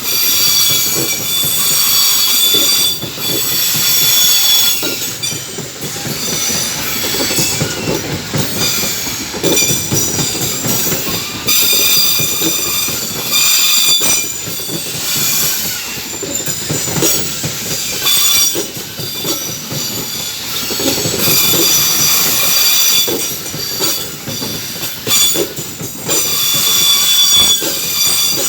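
Loaded coal gondola wagons of a long freight train rolling past. The wheels squeal shrilly on and off every few seconds over a continuous clatter and rumble of wheels on the rails.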